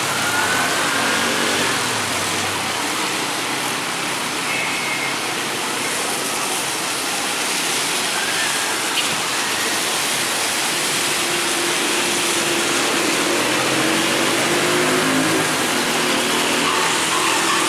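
Steady hiss of heavy rain, with a motor vehicle's engine faintly audible passing in the second half.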